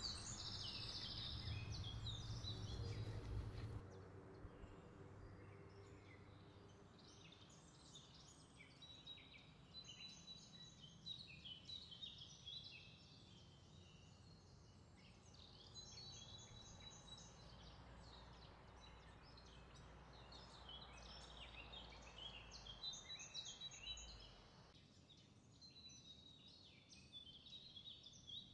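Faint background birdsong, many short chirps and twitters, over a low steady hum. A louder low rumble fills the first four seconds.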